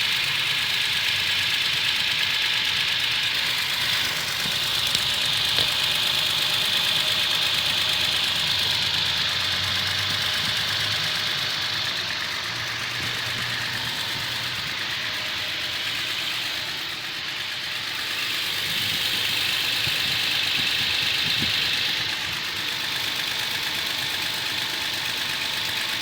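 Toyota Tacoma pickup engine idling while still warming up, with a loud ticking clatter over the run of the engine. The owner suspects a valve fault; the Toyota dealer calls the noise normal.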